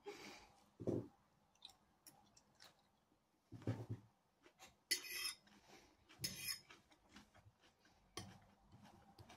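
Faint chewing and mouth sounds of a person eating a forkful of salad, in short irregular smacks and crunches, two of them crisper around the middle.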